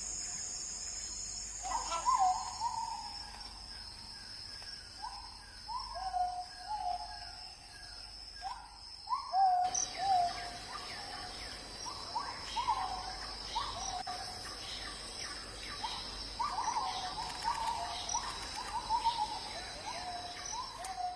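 Hornbill calling: a long series of short, slightly falling notes, repeated irregularly and coming thicker in the second half. A steady high insect drone runs underneath.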